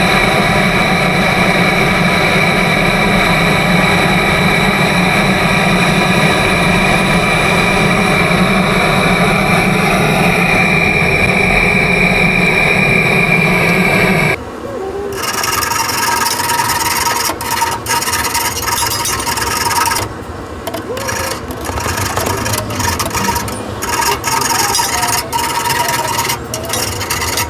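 A loud, steady rushing noise with a constant whistling tone for about fourteen seconds, then cutting off abruptly into irregular scraping and rubbing with sharp clicks, as of metal tools working on pipework.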